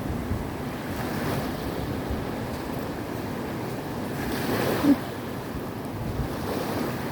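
Surf washing on the shore under wind on the microphone. The noise swells a few times, most strongly about four and a half seconds in, where it ends in one brief sharp knock.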